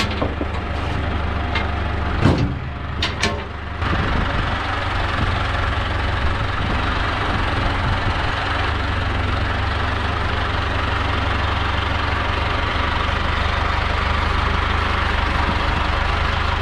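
Diesel engine running steadily, with a few sharp knocks a couple of seconds in. The engine sound steps up and fills out about four seconds in.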